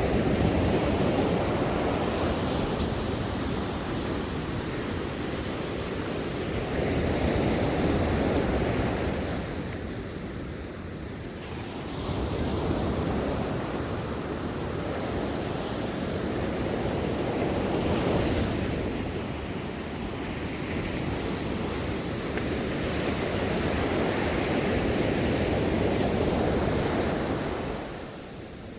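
Ocean waves breaking and washing on a shore, a steady rush that swells and ebbs every few seconds, with a lull about ten seconds in and another near the end.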